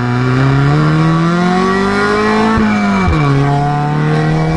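Car engine accelerating hard, its revs climbing, then dropping sharply about three seconds in at an upshift and climbing again in the next gear.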